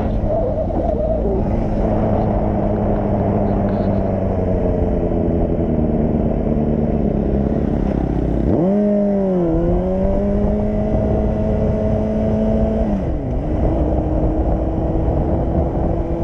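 Motorcycle engine running under way, with low wind rumble on the microphone. Its pitch sinks slowly at first, jumps up sharply about halfway through, then dips and climbs again a few seconds later.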